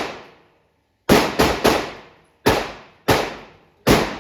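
Gunshots, about six: three in quick succession a little after the start, then three more spaced well apart.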